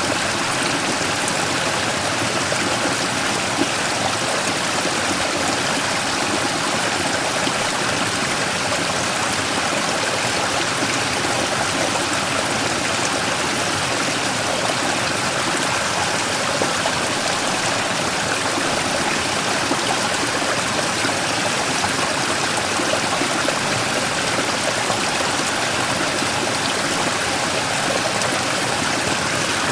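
Mountain stream rushing and splashing over a large rock in a small waterfall, a steady, unbroken wash of water.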